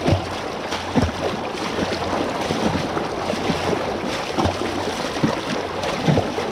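People wading through floodwater while pushing bikes, with a splashing step about once a second over a steady wash of water noise.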